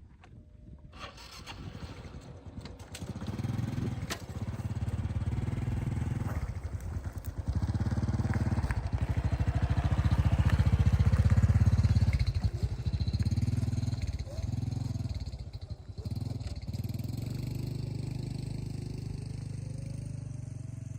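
A small engine running, coming up in surges of revving with brief dips, loudest about halfway through, then settling to a steady run for the last few seconds.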